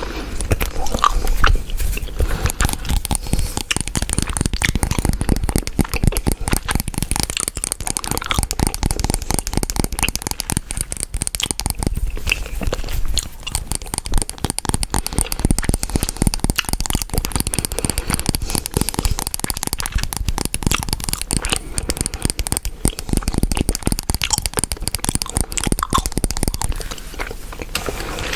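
Chewing gum close to the microphone: a dense, continuous run of wet clicks and crackles from the mouth.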